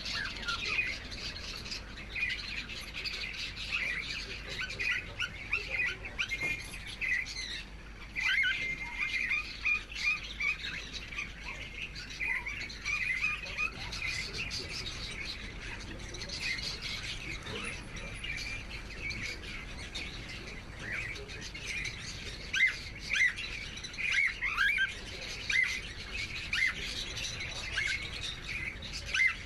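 Cockatiels chirping and calling continuously, many short chirps overlapping, with occasional harsher squawks.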